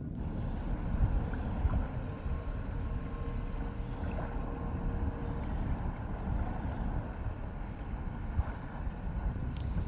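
Wind buffeting the microphone over the steady running of a boat's engine, as a rescue boat tows a grounded sailing boat in.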